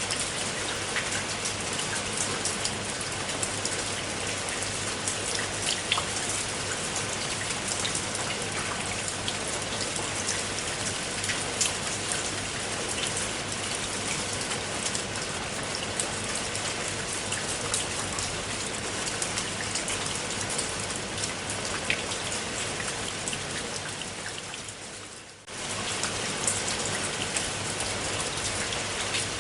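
Steady rainfall, an even hiss with individual drops ticking through it. About 24 seconds in it fades down for a moment, then comes back suddenly at full strength.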